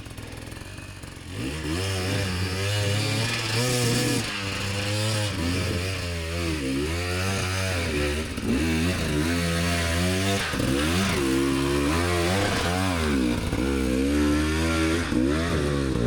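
Dirt bike engine revving up and down over and over as the throttle is worked on a steep hill climb, the pitch rising and falling every second or so. Quieter for the first second or so, then steady in loudness.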